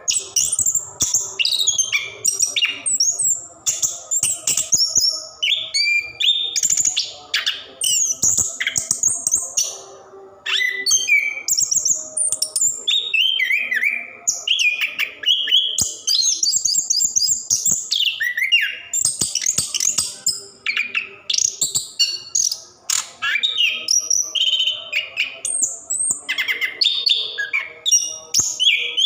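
Orange-headed thrush (anis kembang, plontang variety) singing a long, unbroken rolling song of fast, ever-changing whistled phrases with hardly a pause.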